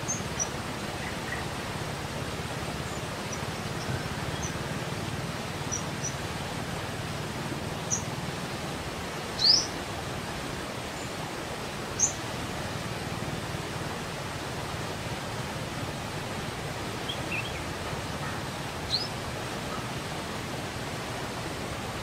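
Steady outdoor background noise with scattered short, high-pitched bird chirps, the loudest about nine and a half seconds in and others around twelve and nineteen seconds.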